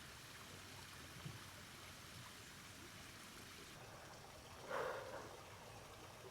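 Creek water flowing, a faint steady rush, with one brief louder sound about three-quarters of the way through.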